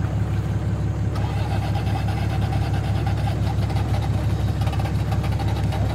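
1990 Toyota 4Runner engine cranking over on the starter with the gas pressed, in a steady fast pulsing rhythm as it tries to catch; about a second in the sound gets brighter and stays so. The engine has just swallowed water in a deep puddle and is still wet inside.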